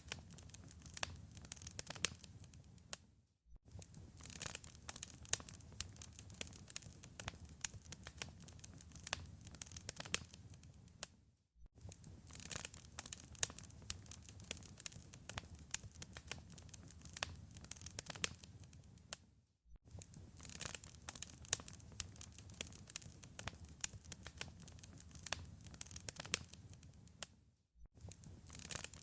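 Wood fire crackling in a fireplace: dense sharp pops and snaps over a low rumble. The sound fades away briefly and comes back about every eight seconds, four times.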